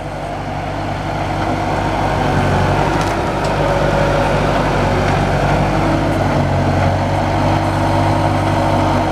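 Engine of a log-loading crane truck running steadily while logs are unloaded, growing louder over the first two seconds or so and then holding level.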